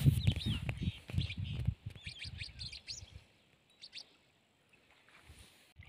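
Small birds chirping: a quick run of short high chirps and falling notes over the first three or four seconds, then fading to near quiet. A low rumble runs under the chirps for the first two seconds.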